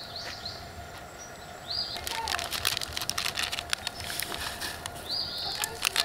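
A bird calling outdoors, short rising-and-falling calls repeated every few seconds. From about two seconds in, a dense patter of small clicks runs underneath.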